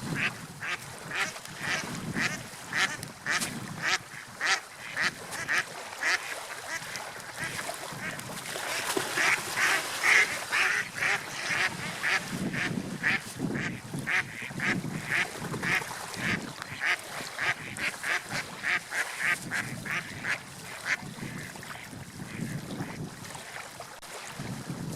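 Gulls calling in a long series of short, rapid calls, about two to three a second, busiest around ten seconds in and thinning out near the end, over a low steady rush of wind and surf.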